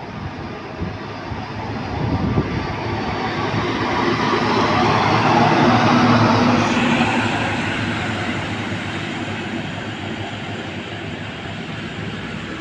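A large truck driving past: engine and tyre noise grow louder to a peak about halfway through, then slowly fade away.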